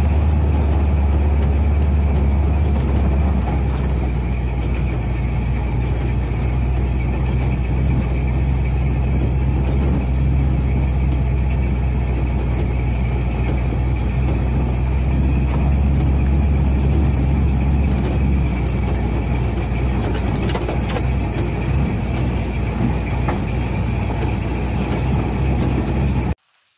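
Old first-generation Ram pickup truck driving, heard from inside the cab: a steady low engine and road hum that cuts off suddenly near the end.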